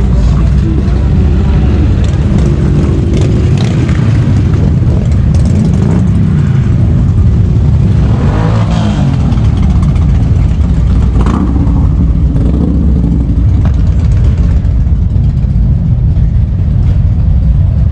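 Motorcycle engines running and revving in heavy street traffic, a constant low rumble, with one louder engine rising and falling in pitch about eight seconds in.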